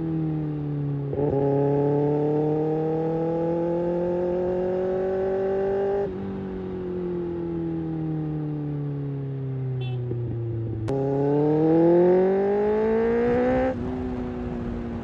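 Kawasaki Ninja ZX-6R inline-four running through an Ixil slip-on exhaust as it is ridden: the engine note climbs steadily under throttle, drops back and winds down as the throttle is closed, then climbs again more quickly and drops once more near the end. A sharp click sounds just before the second pull.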